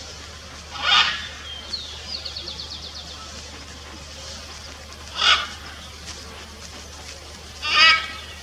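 Blue-and-yellow macaw calling: three loud, short squawks, about a second in, a little past the middle and near the end. Between the first two, a faint rapid series of high notes from a smaller bird.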